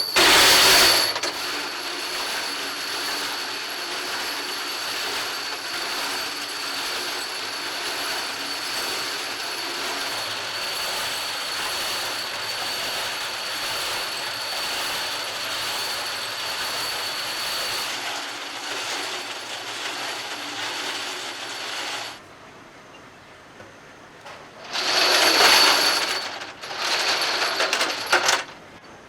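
Metalworking machine working mild steel stock for tractor pins. It starts with a loud burst, runs steadily with a thin high whine, and stops about 22 seconds in. Two shorter loud bursts follow near the end.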